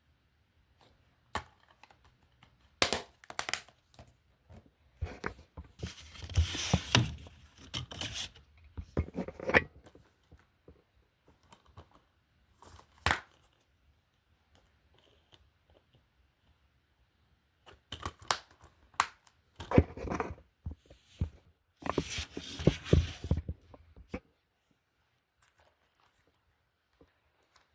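Handling noise of plastic disc cases: scattered clicks and knocks with bursts of rustling and scraping, in two busy spells with a lull between them.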